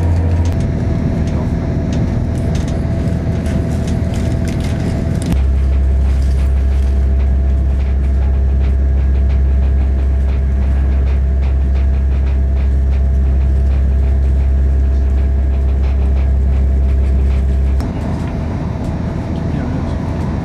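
Passenger train running, heard from inside the carriage: a steady low drone with scattered faint clicks, its tone changing abruptly about five seconds in and again near the end.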